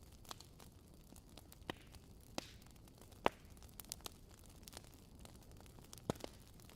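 Wood fire crackling: irregular sharp pops and snaps over a low steady hiss, the loudest pop a little past three seconds in.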